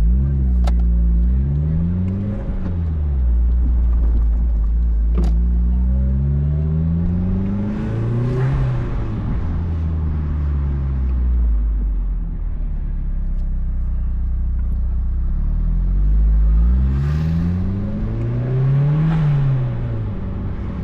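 Engine and exhaust of a 2004 Mazdaspeed Miata, a turbocharged 1.8-litre four-cylinder with a Flyin' Miata cat-back exhaust, heard with the top down as the car accelerates: the engine note climbs and drops back three times, briefly about a second in, then longer around eight seconds and near nineteen seconds. Each of the two longer pulls ends in a rush of hiss.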